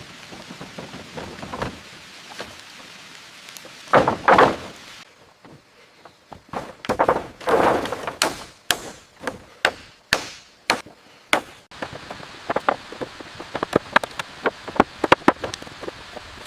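A steady rain-like hiss with a few thuds, then a series of sharp knocks and taps of building work, irregular at first and quicker, about several a second, in the last few seconds.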